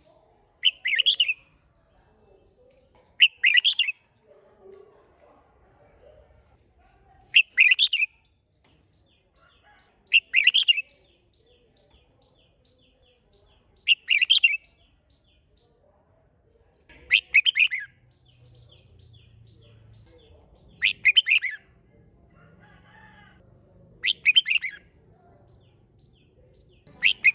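Red-whiskered bulbul singing short, loud phrases of rapid notes, one about every three seconds.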